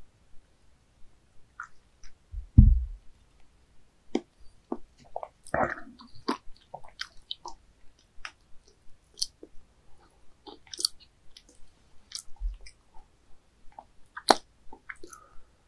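A person chewing raw baby squid close to the microphone: a long run of wet mouth clicks and smacks. There is a loud low thump about two and a half seconds in and a softer one near twelve seconds.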